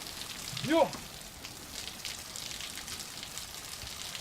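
Steady rushing of a waterfall. A man gives one short exclamation, rising then falling in pitch, about three-quarters of a second in.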